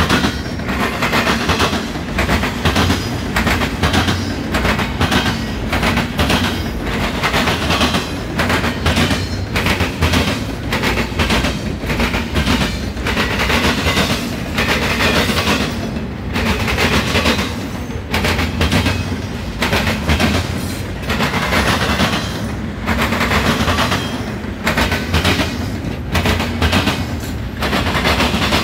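Double-stack intermodal container train passing close by, its well cars' wheels clattering over the track in a fast, uneven stream of sharp clacks over a steady low rumble.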